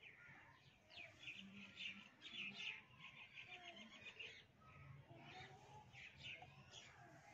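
Faint chirping of small birds, a quick run of short chirps in the first half and more scattered chirps later.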